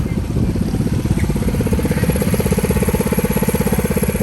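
Small mini bike engine running at a steady idle close by, a fast, even putter.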